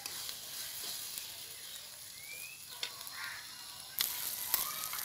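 Onion, ginger and garlic pastes with green chillies sizzling in hot oil in a wok, with a metal spatula stirring and scraping against the pan and a few sharp clicks. The sizzle gets louder about four seconds in.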